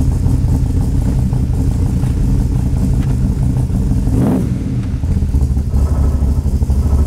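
Big-block 427 Ford V8 with a four-barrel carburetor running cold on its choke's high-idle setting. About four seconds in, a quick goose of the throttle knocks it off the fast-idle cam, and it settles to a normal idle of around 800 rpm.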